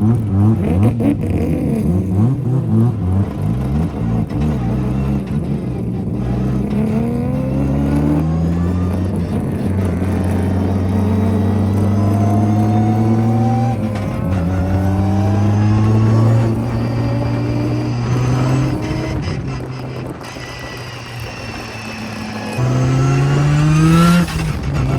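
Turbocharged full-bridgeport 13B rotary engine of a Mazda RX-7 FD drift car, heard from inside the car while it is driven hard. The revs climb and drop back several times in a row, and a last climb near the end is cut off sharply.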